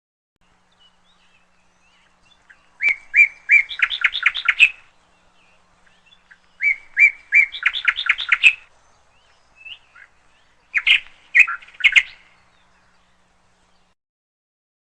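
Canary singing: two short phrases, each a few spaced notes running into a fast trill, then a few separate chirps near the end.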